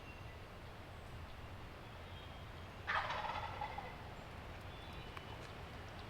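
A wild turkey tom gobbling once, a short rattling call about three seconds in.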